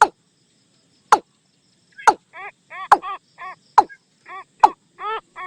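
Watercock calling: loud, sharp single notes about once a second, joined after about two seconds by a quicker run of short, pitched, downward-curving notes.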